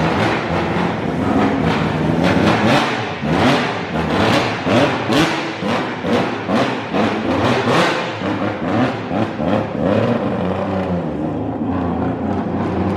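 Drift kart's carburetted engine revved in repeated quick throttle blips, really loud and echoing.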